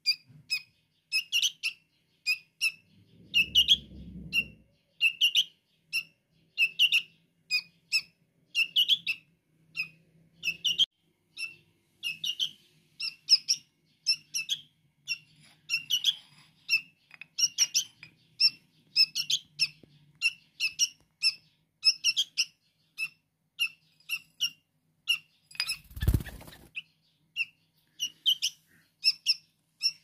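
A fledgling bird's begging calls: short high chirps repeated over and over, roughly twice a second. A brief loud noise cuts in once near the end.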